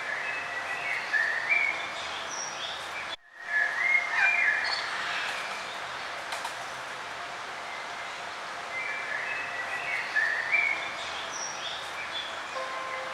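Songbirds chirping and singing in short repeated phrases over a steady background hiss. The sound cuts out completely for a moment about three seconds in.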